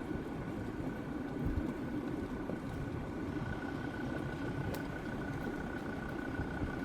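Jeep Grand Cherokee WJ's 2.7-litre five-cylinder diesel engine running steadily, a low rumble with a thin steady whine above it.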